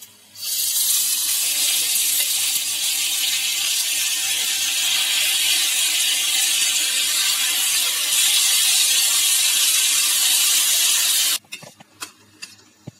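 Wet soaked urad dal sizzling in hot oil in a steel kadhai: a loud, steady hiss that starts as the dal goes in, the water on the soaked lentils hitting the hot oil. The hiss cuts off suddenly near the end, followed by a few clinks of a steel spatula against the pan.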